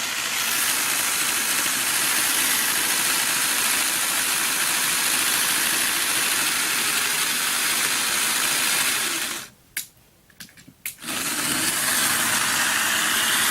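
Bachmann Percy model locomotive's small electric motor and gears whirring steadily as it runs on the track. The sound cuts out for about a second and a half two-thirds of the way through, then starts again.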